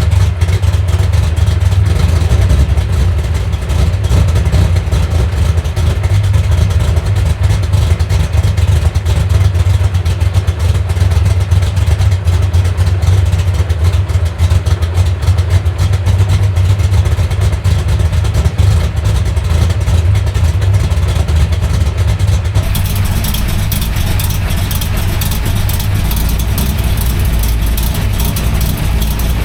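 355 cubic-inch small-block Chevy V8 with a big-overlap Lunati cam and tunnel ram running through its exhaust, a loud, deep and uneven idle. About 23 seconds in the sound changes abruptly in tone, with more hiss and a smoother level.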